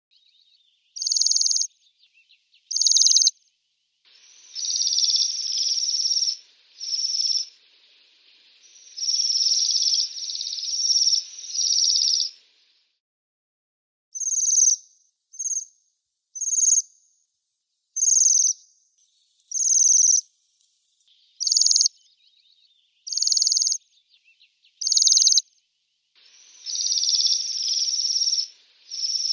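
Bohemian waxwing calling: high-pitched trilled calls, some short and single, others run together into stretches of several seconds.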